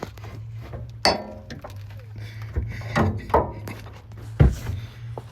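Metal clanks and thumps as the old axle is worked out of the car: a sharp ringing clink about a second in, a couple of knocks around the middle, and a heavy thud near the end, over a low steady hum.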